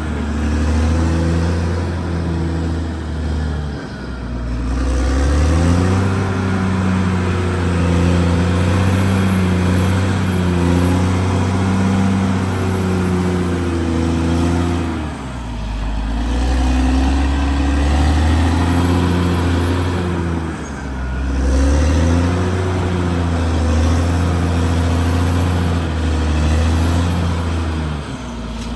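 Caterpillar D6R XL bulldozer's diesel engine running loudly, its pitch sagging and recovering four times: about four seconds in, around fifteen and twenty seconds in, and near the end.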